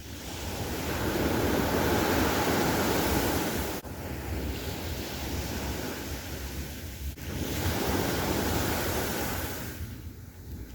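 Sea waves breaking and washing in, swelling and easing twice, with wind buffeting the microphone. The sound drops out for an instant twice.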